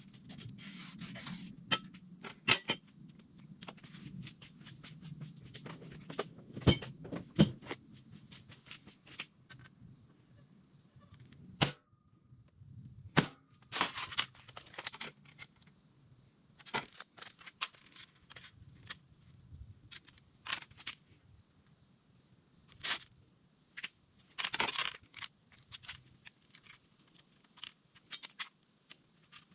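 Irregular sharp knocks and clanks of a hammer and punch driving old rivets out of a rusted steel battery tray, some strikes much louder than others, with a faint steady high whine behind them.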